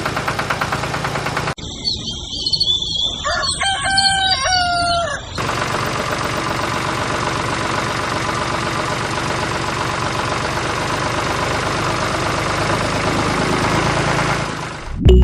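The mini tractor's small engine runs with a fast, even pulsing. After a sudden cut, a rooster crows, loudest about four to five seconds in. Then a steady engine running noise carries on until near the end.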